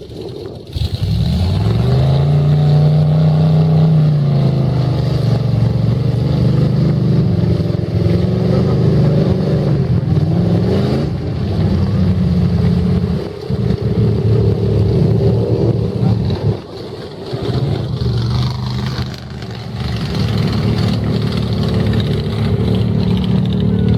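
Mud truck engine revving hard. The pitch climbs about a second in and holds high, dips briefly twice midway, then climbs again.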